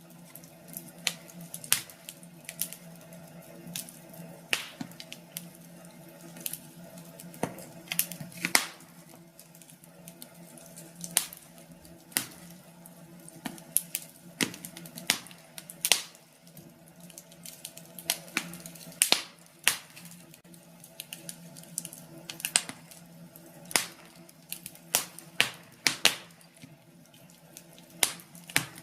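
Wood fire crackling in a fireplace: irregular sharp pops and snaps, some much louder than others, over a low steady hum.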